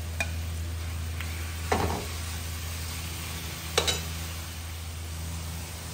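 Sliced raw chicken breast sizzling in hot oil with onions and garlic in a metal pot, with a metal ladle scraping and knocking against the pan three times: lightly near the start, then louder about two and four seconds in. A steady low hum runs underneath.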